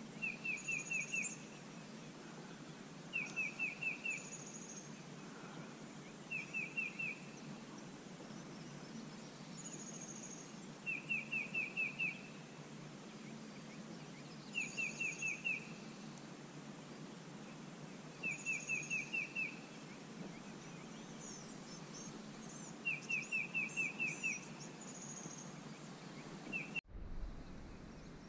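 A songbird singing a short phrase of four to six quick notes, repeated about every three to four seconds, over a steady outdoor background rush. The sound cuts out abruptly near the end.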